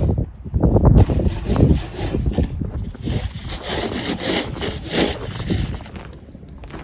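Repeated scraping strokes, about one every half second to second, fading near the end.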